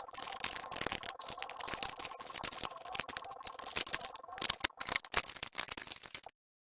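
Rapid, irregular mechanical clicking and rattling over a faint steady hum, cutting off suddenly about six seconds in.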